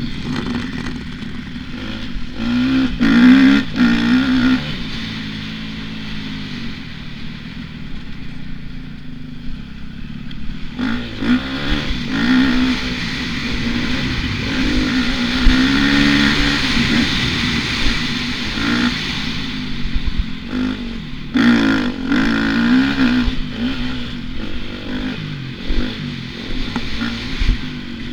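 Motocross dirt bike engine revving up and dropping back again and again as it is ridden around the track, with a steady rush of noise and a few sharp knocks and clatters.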